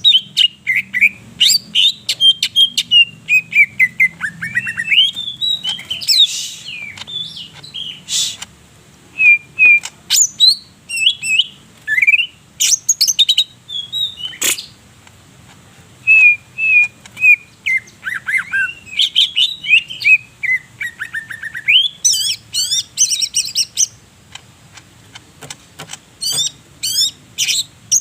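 Green leafbird (cucak ijo) singing in full voice: a long, varied song of whistled phrases, quick rising and falling glides, rapid chirps and sharp single notes, broken by short pauses.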